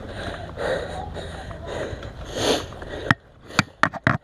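Heavy breathing close to the microphone, three loud breaths in a row. In the last second come about four sharp snapping shots from airsoft guns.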